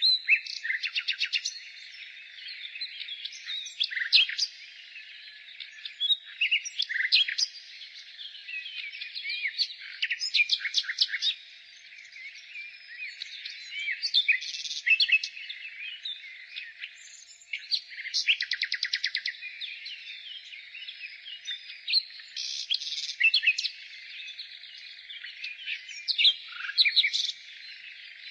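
Nightingale singing: phrase after phrase of fast repeated notes and trills with short gaps between them, over fainter continuous bird twittering.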